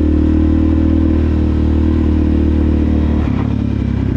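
Suzuki DRZ400SM's single-cylinder four-stroke engine running through a Yoshimura exhaust at a steady pitch while riding, its even note breaking up and changing about three seconds in.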